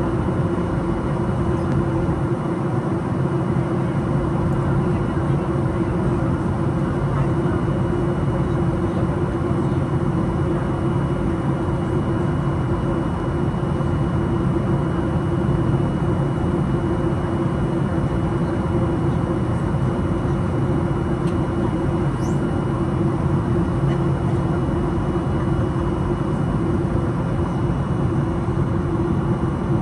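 Steady cabin noise of a Boeing 737-800 airliner in flight: an even rush of air and engine noise with a constant low hum and a faint high steady whine.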